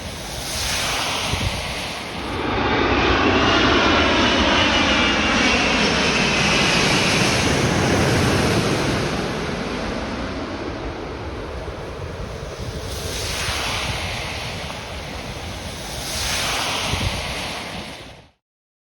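Airbus A380's four jet engines passing low overhead on landing approach, very loud. The noise swells about two seconds in, its whine falls in pitch as the airliner goes over, and it then settles to a lower rumble before cutting off abruptly near the end.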